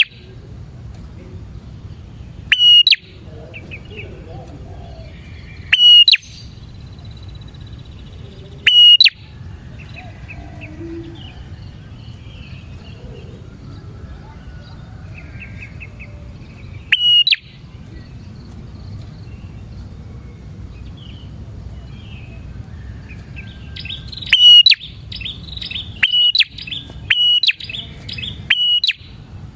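Prenjak (prinia) song: loud, sharp, short calls every few seconds, breaking into a quicker run of calls near the end, over a low steady background noise with faint chirps from other birds.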